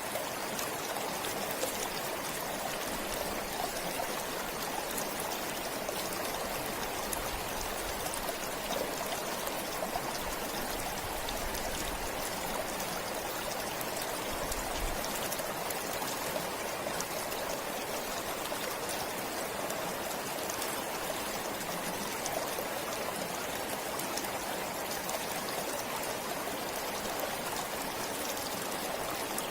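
A forest stream flowing steadily, with small splashes and trickles over rocks.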